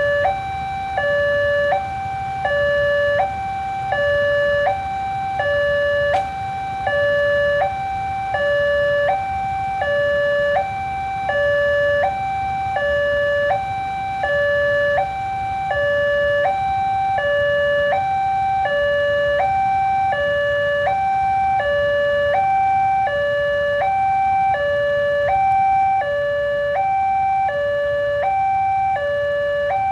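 Railway level-crossing warning alarm sounding a steady two-tone electronic signal, switching between a high and a low tone about once a second, over a low rumble.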